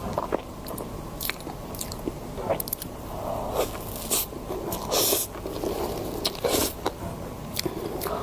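Close-miked eating: irregular crisp crunching bites and chewing, with the loudest crunches about five and six and a half seconds in.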